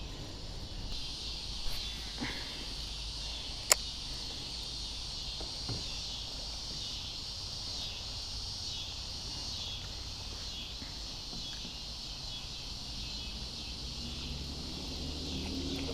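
Steady high-pitched chorus of insects, with a low rumble underneath and a single sharp click about four seconds in.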